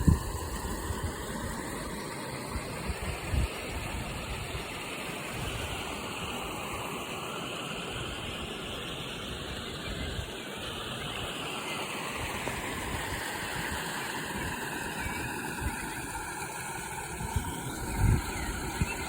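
River water flowing in a steady rush, with a few short low thumps near the start, about three and a half seconds in, and near the end.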